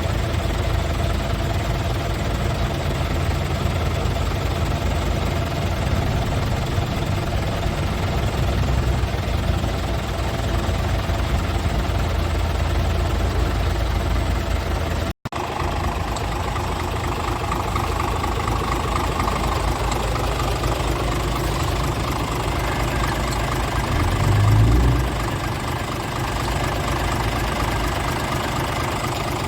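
Scania R450 tractor unit's 13-litre straight-six diesel idling steadily, with a brief rise in engine sound near the end. The sound drops out for a split second about halfway.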